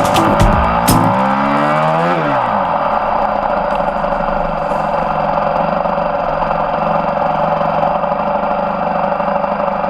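Pit bike engine revving up, its pitch rising over the first couple of seconds, then running steadily at high revs.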